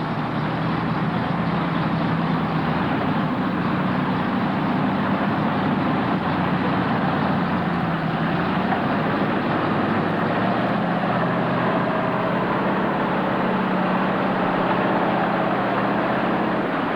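A truck engine running steadily, its pitch wavering slightly up and down.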